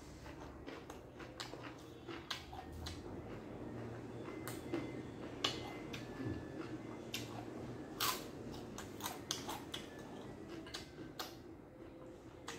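A man eating by hand: close, wet chewing with irregular smacking and crunching clicks from a mouthful of long-bean salad, dried beef and raw vegetables.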